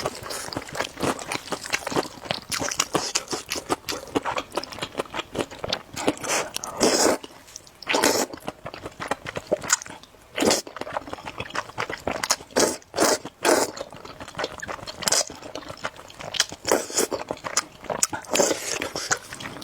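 Close-miked mukbang eating: chewing, slurping and biting with many irregular wet and crunchy clicks.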